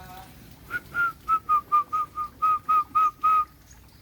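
A bird whistling a quick series of about a dozen short, clear notes on nearly the same pitch, roughly four a second, starting just under a second in and stopping abruptly near the end.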